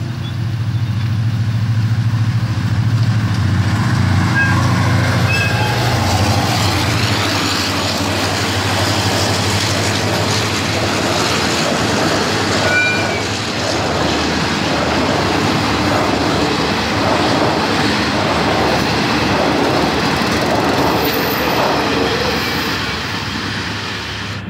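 Express passenger train passing close by, led by a Hitachi diesel-electric locomotive: the locomotive's diesel engine is heard for the first six or seven seconds, then a long rake of coaches rolls by with a steady rhythmic clatter of wheels over the rail joints. The clatter eases near the end as the last coaches go by.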